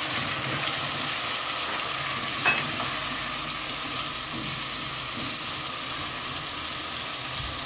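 Pequi fruits sizzling steadily as they fry in oil with garlic and onion in a pot, stirred with a spoon; a brief clink about two and a half seconds in.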